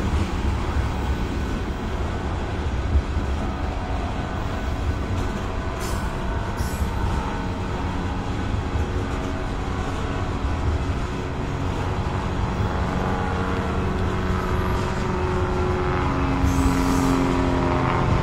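A train rolling along the track, a steady low rumble of rail cars, with some steady tones that grow stronger near the end.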